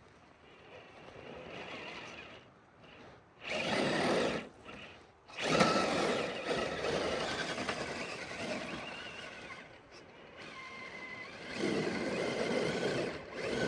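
Element Sendero RC crawler's electric motor and gears whirring in three bursts of driving, with a faint steady whine under the noise; the loudest burst starts about five and a half seconds in.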